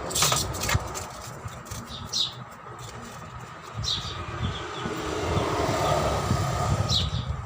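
Low, uneven vehicle rumble with a faint steady hum. A couple of sharp knocks come just after the start, and short high falling chirps sound about every two seconds.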